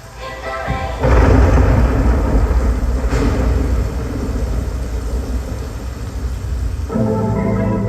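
Thunderstorm sound effect played loud through a concert PA: a heavy rumble of thunder with rain hiss that starts about a second in. Synth music notes return near the end.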